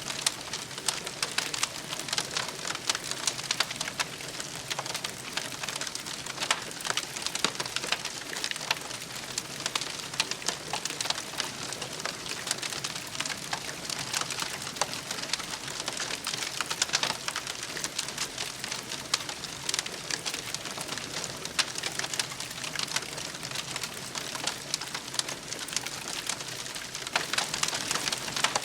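Wood campfire crackling, dense small snaps over a steady hiss.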